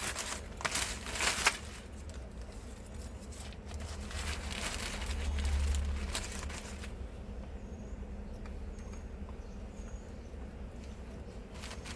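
Paper sandwich wrapper crinkling in quick crackly bursts, then softer rustling as the wrap is handled. In the last few seconds faint short high chirps repeat about once a second.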